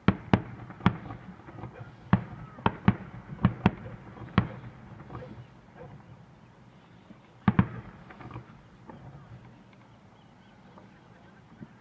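Aerial fireworks going off: a quick run of about nine sharp bangs in the first four and a half seconds, one more loud bang a few seconds later, then only faint pops.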